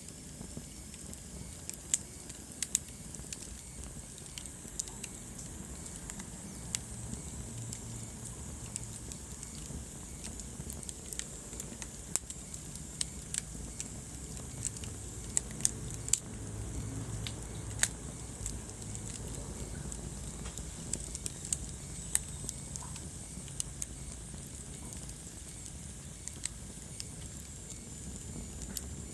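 Wood fire burning in a fireplace, crackling with sharp irregular pops over a steady low rumble of the flames.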